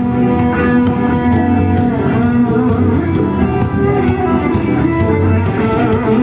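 Band music led by guitar, an instrumental passage without singing.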